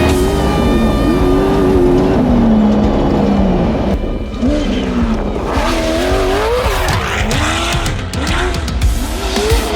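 Trophy truck race engine running hard, its pitch holding steady and then climbing and dropping again and again as the truck revs and lifts off over rough ground.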